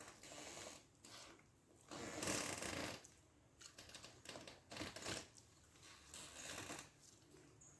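Close eating sounds of a person eating rice with fish gravy: short wet bursts of chewing and mouth noise, the loudest about two seconds in and several smaller ones after.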